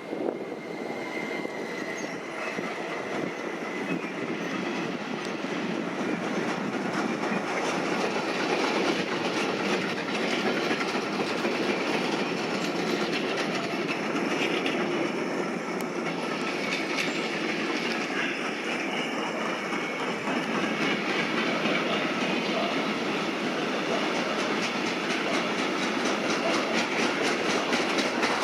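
A train running past, its wheels clattering over the rail joints in a steady stream of clicks that come closer together near the end, with a thin wheel squeal in the first few seconds.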